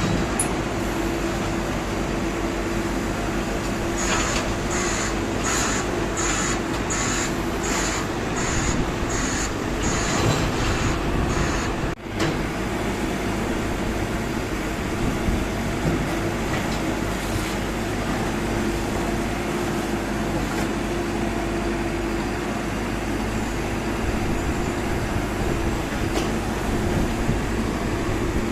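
A heavy engine running steadily with a constant hum. For several seconds a regular high pulsing, about a dozen beats under a second apart, rides over it and then stops.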